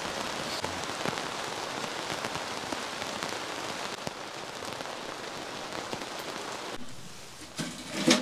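Heavy rain pouring down, a dense steady hiss with the patter of individual drops. It falls away abruptly near the end, and a few short knocks follow, the last the loudest.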